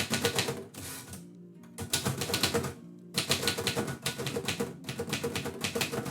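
Typewriter being typed on in quick bursts of keystrokes with short pauses between them, over background music.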